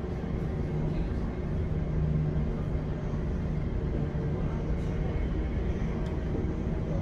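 Inside a London Overground Class 710 electric train running between stations: a steady rumble of wheels on the track with a constant low hum.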